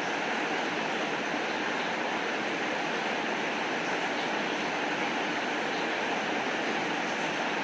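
Steady rainfall, an even hiss with faint scattered ticks of drops.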